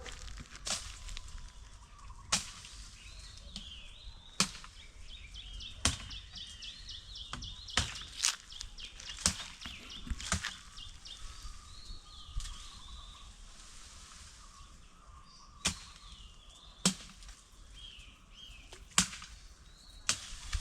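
Sharp knocks or taps at irregular intervals, about a dozen in all, over small birds chirping in quick repeated notes.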